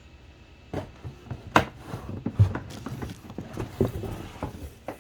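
Cardboard box and packaging being handled and opened: irregular knocks, taps and rustling, starting about a second in.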